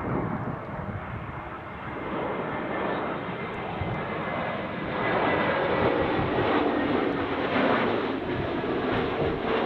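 Airliner passing low on short final approach to land, its engine noise growing louder about five seconds in, with a few steady hums running through it.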